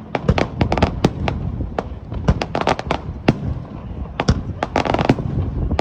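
Aerial fireworks bursting in quick succession: sharp bangs with three bursts of rapid crackling pops.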